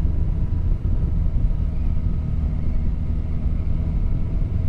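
Motorcycle riding at a steady speed: a steady engine drone under heavy wind rumble on the microphone.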